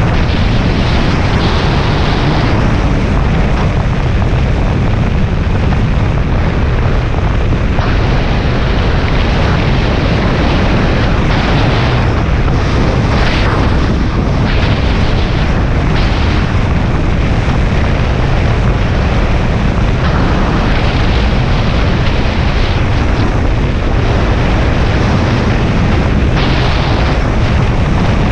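Suzuki Bandit 650S inline-four engine running steadily at highway cruising speed, under a constant rush of wind and road noise.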